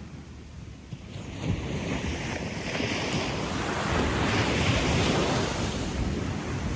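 Gentle surf on a sandy beach: a small wave breaks and washes up the sand, swelling about a second and a half in and easing off near the end, with some wind on the microphone.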